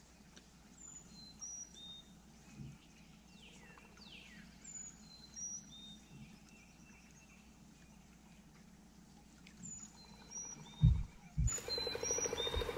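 A songbird sings the same short phrase of clear whistled notes stepping down in pitch three times, over faint outdoor background. Near the end come a few low thumps, the loudest about eleven seconds in, then a louder rushing noise.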